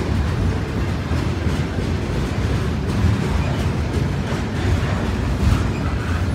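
Double-stack container cars of a BNSF intermodal freight train rolling past: a loud, steady rumble of steel wheels on rail, with occasional clicks.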